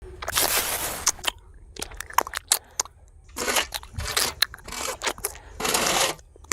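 Gritty crunching and scraping in irregular bursts, with sharp clicks and knocks between them, from handling miniature bricks and cement in a small-scale build.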